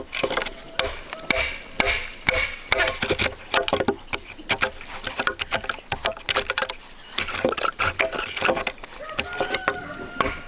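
An irregular run of sharp knocks and chopping strikes, several a second, with a faint high tone near the end.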